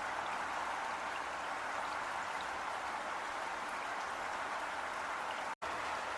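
Heavy rain falling steadily, an even hiss of many drops with faint scattered drip ticks. The sound cuts out completely for a split second near the end, then resumes.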